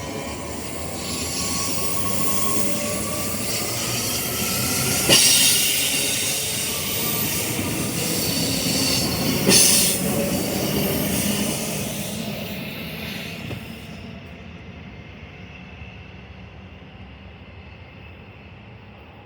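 Queensland Rail electric passenger train running on the rails, its wheels squealing in thin gliding tones. Two sharp hissing bursts come about five and nine and a half seconds in. Then the train noise fades away steadily.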